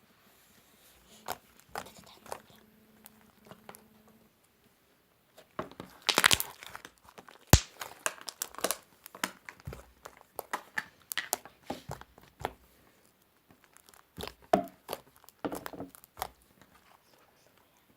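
Fluffy slime being squeezed and stretched, giving irregular crackling pops and clicks.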